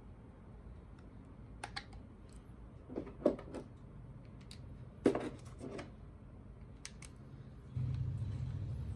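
Small clicks and taps of plastic and metal parts being handled as a cordless drill's carbon brush and housing are worked on by hand, with two sharper clicks about three and five seconds in. A low steady hum starts near the end.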